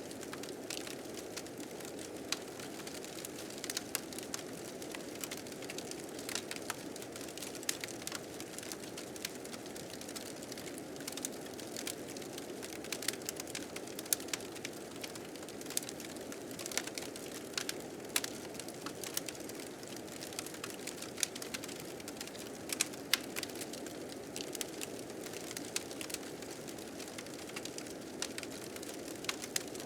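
Wood fire crackling with frequent sharp, irregular pops over a steady low rushing of blizzard wind.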